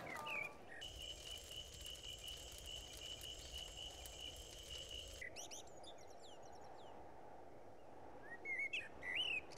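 Faint nature ambience: a steady, high cricket trill that cuts off suddenly about five seconds in, followed by scattered bird chirps, a few louder ones near the end.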